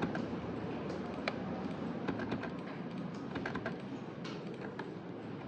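Typing on a computer keyboard: irregular key clicks over a steady low office hum.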